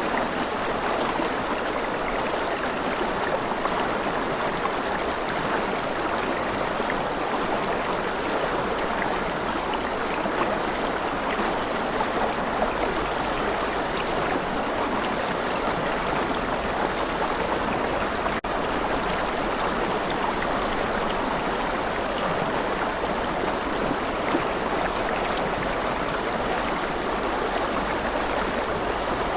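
Rushing river water flowing steadily, an even, continuous rush of water over rocks.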